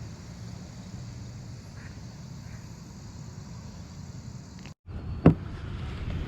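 Quiet outdoor ambience with a steady low hum, typical of distant traffic. A little after five seconds comes a single sharp knock.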